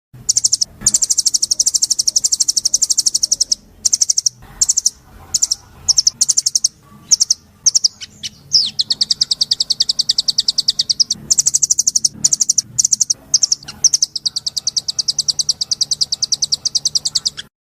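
Songbird singing long, very rapid trills of repeated high notes, broken by short pauses and a few varied chirps near the middle.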